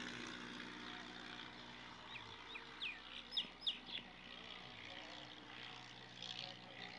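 Small birds chirping outdoors: a quick run of short, falling chirps about two to four seconds in, and a few more near the end, over a steady background hiss.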